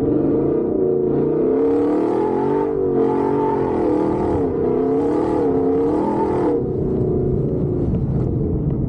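Gen 1 Ford Raptor's V8 engine revving up and down under hard acceleration on a dirt track. A hissing rush comes in waves from about one and a half to six and a half seconds in.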